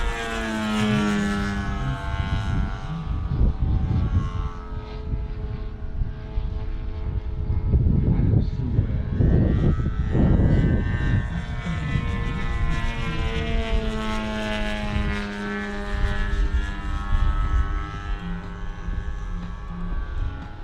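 Engines and propellers of two large radio-controlled Pitts Special biplane models in aerobatic flight, their pitch rising and falling as they climb, dive and pass. The sound is loudest near the middle, with a low rumble under the engine tones.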